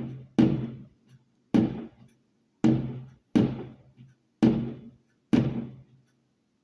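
Fireworks exploding: six sharp bangs roughly a second apart, each fading away over about half a second.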